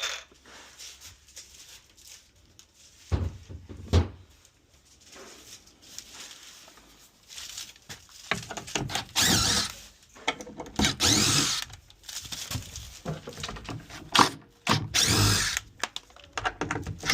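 Power drill driving screws in a series of short bursts, its motor whine rising and falling in pitch as the trigger is squeezed and eased. Two sharp knocks come about three and four seconds in.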